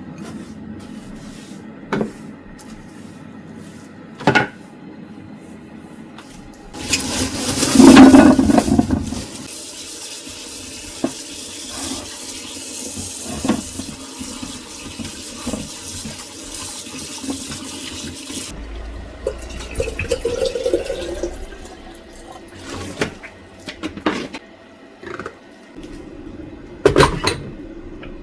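Water running from a kitchen tap for about ten seconds, splashing hardest just after it starts, then shut off suddenly. Scattered clinks and knocks from handling kitchenware come before and after it.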